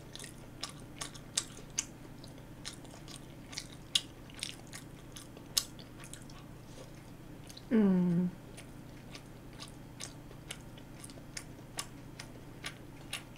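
A person chewing a mouthful of food close to the microphone: irregular wet mouth clicks and smacks, with a short hummed "mm" falling in pitch about eight seconds in.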